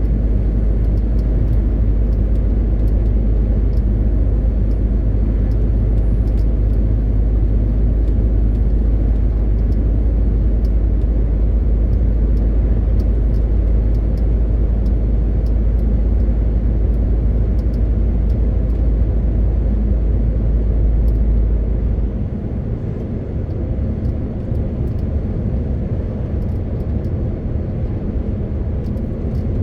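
MAN TGX 18.520 truck driving, its engine and road noise making a steady low drone. About 22 seconds in, the deepest rumble drops away and the sound gets a little quieter.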